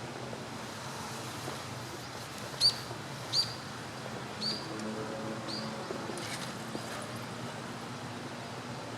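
Kingfisher calling: four short, high, sharp chirps about a second apart, the first two loudest.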